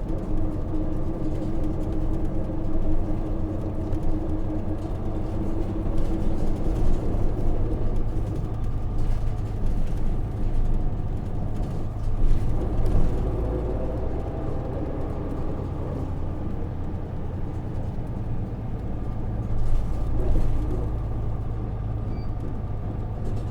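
Inside a 2005 Hino KV234 city bus while it is driving: its Isuzu 6HK1 six-cylinder diesel engine is running, with road and tyre noise beneath it.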